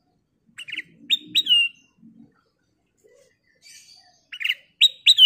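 Black-crested bulbul singing: a short phrase of quick notes ending in two clear down-slurred whistles, given twice about four seconds apart.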